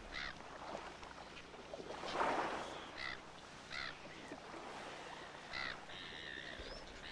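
Birds calling in a few short chirps over a soft wash of shallow water, all faint.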